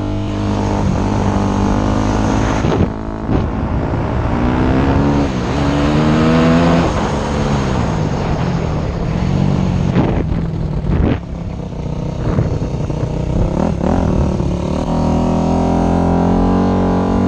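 Dirt bike engine revving and accelerating, its pitch climbing and dropping again several times, with a few sharp knocks between about ten and fourteen seconds in.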